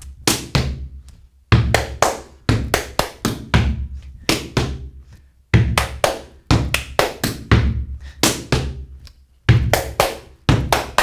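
Gumboot dance: hands slapping rubber gumboots, claps and boot stomps on a wooden platform, played as a fast repeating rhythmic phrase. The strikes come in quick runs with short pauses between them, each stomp carrying a low thud.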